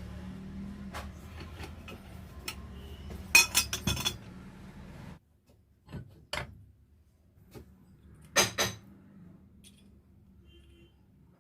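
Metal parts and tools clinking against each other during hand work on an alternator. A quick cluster of sharp clinks comes a little over three seconds in and another about eight seconds in, with a few fainter taps between. A steady low hum runs under the first half and stops about five seconds in.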